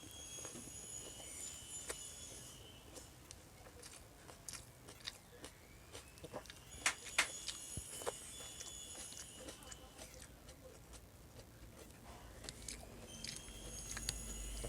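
Close-miked chewing and biting while eating paksiw na bangus (milkfish stewed in vinegar), with many short mouth clicks and smacks, a few louder ones about seven seconds in. A faint high steady tone sounds three times in the background.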